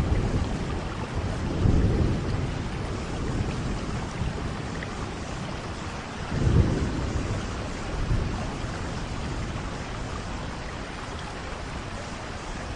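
Steady heavy rain with thunder rumbling through it: a low roll about 2 seconds in and a louder one about 6 and a half seconds in, after which the thunder dies away and only the rain remains.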